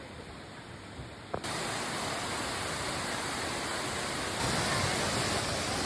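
Quiet outdoor background that cuts abruptly, about a second and a half in, to the loud, steady rush of a waterfall, a little louder again a few seconds later.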